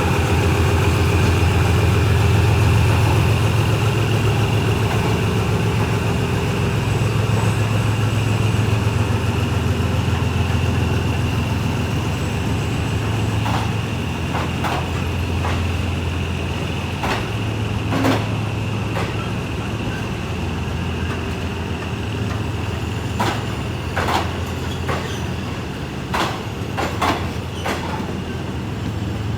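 Diesel train engine running with a steady low hum. From about halfway, a scatter of sharp clicks and knocks comes over it.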